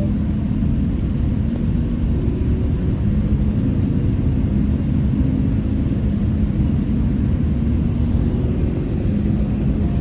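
Steady low rumble of an airliner's engines and airflow.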